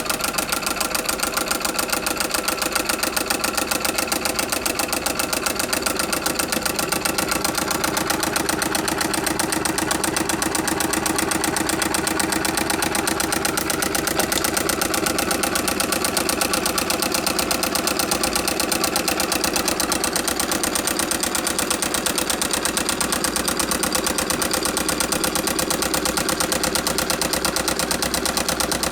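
Battery-powered solenoid engine built from a pinball machine flipper solenoid, running steadily with a fast, even clacking each time the solenoid fires and drives the flywheel.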